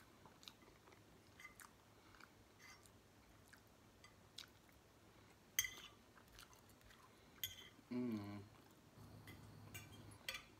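Close-miked chewing of fries, with small wet mouth clicks and a few sharper clicks, the loudest about halfway through. About 8 seconds in comes a short pitched hum from the eater's voice.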